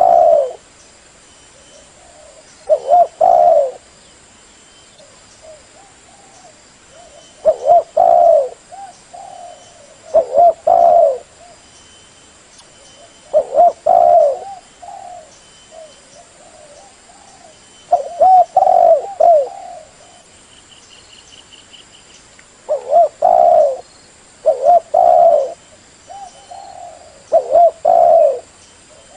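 Spotted dove cooing: the decoy call used to lure wild doves. Loud phrases of a few low coos repeat every two to five seconds, with softer coos between them.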